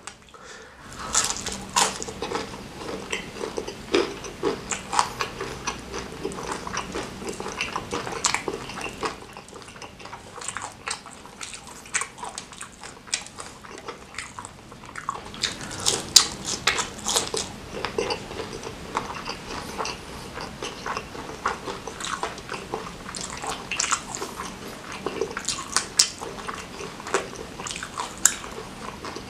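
Close-miked chewing and biting of spicy smashed fried chicken skin, a dense run of many short clicks and small crunches, busiest about halfway through.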